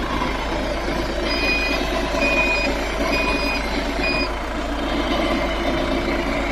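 A vehicle's reversing alarm beeping four times at a steady pace, about one beep a second, the last one shorter, over a steady running-engine rumble.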